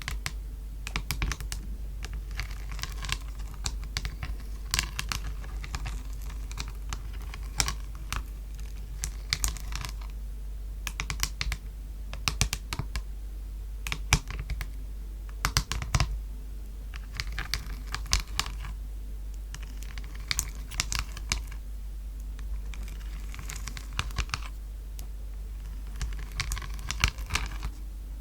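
Fingernails tapping on a palette: quick, irregular flurries of light clicks with short pauses between them.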